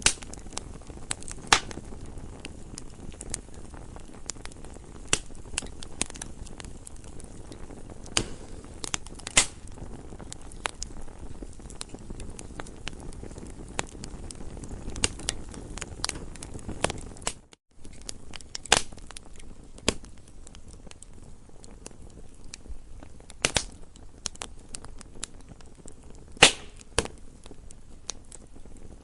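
Campfire crackling: irregular sharp pops and snaps of burning wood over a low, steady hiss. The sound drops out for a moment about two-thirds of the way in.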